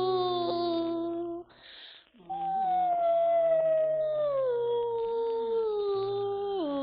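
Dog-like howling on a sound-effects record: one long howl that breaks off about a second and a half in, then a second long howl that slides slowly down in pitch and drops lower near the end.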